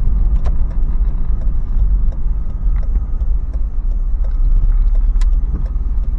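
Interior drone of a Toyota 4Runner's 4.0-litre V6 and its large off-road tyres at low speed, a steady low rumble. A few light clicks and rattles sound now and then, the loudest about five seconds in.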